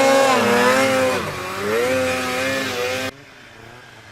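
Polaris 800 two-stroke snowmobile engine running at high revs, its pitch dipping about a second in and climbing again, typical of a rider turning the sled around in snow. About three seconds in the loud engine sound cuts off suddenly, leaving a much quieter engine.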